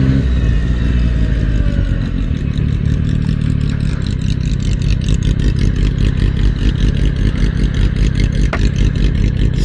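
Motorcycle engine running steadily on the road, with a deep exhaust note and a rapid, even pulsing.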